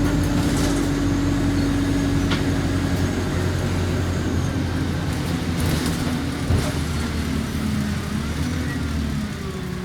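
Alexander Dennis Enviro200 bus engine running with the bus under way, heard from inside the cabin: a steady low drone with a whine on top that drops lower about halfway through, with a few light rattles and clicks.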